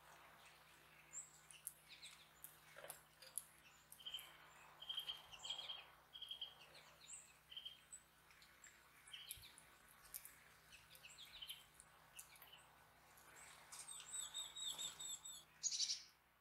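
Small songbirds chirping and calling faintly, with many short high chirps and quick runs of repeated notes.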